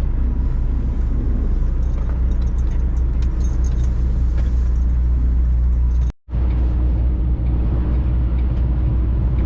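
Semi truck's engine running with a steady low drone heard inside the cab, with light rattles and clicks in the first half. The sound cuts out completely for a moment about six seconds in, then the drone resumes.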